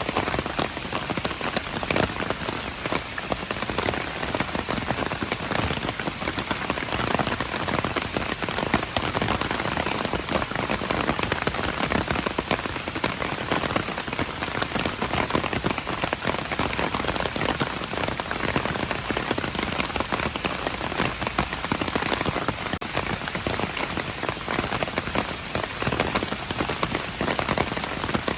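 Steady rain falling on hard surfaces, a dense patter of drops.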